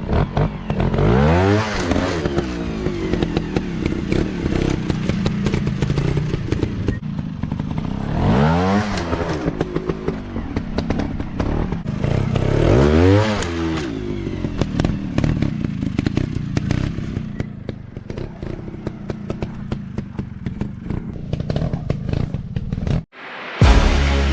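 Off-road motocross bike engines running hard over rough ground, the engine pitch rising sharply three times as the throttle is opened, with clattering and knocks from the bikes over the terrain.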